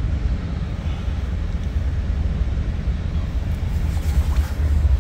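Inside a moving Bombardier MultiLevel commuter coach: the train's steady low rumble as it rolls along the track, getting a little louder near the end.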